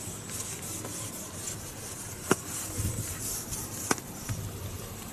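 Faint rubbing and scraping of fishing tackle and a caught fish being handled, with two sharp clicks about a second and a half apart near the middle.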